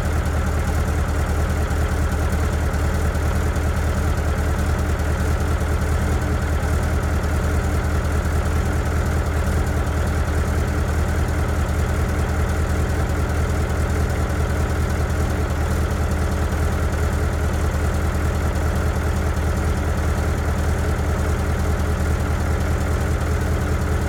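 Scania 142's 14-litre V8 diesel idling steadily at an even, low rumble, warming up after a cold start.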